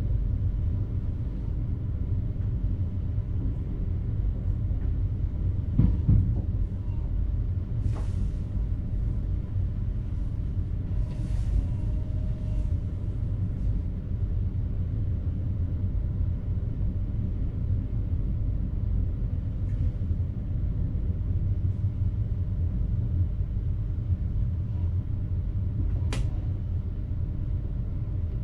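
Steady low rumble inside the driver's cab of an NS electric train, with a thud about six seconds in, short hisses around eight seconds and again between eleven and thirteen seconds, and a sharp click near the end.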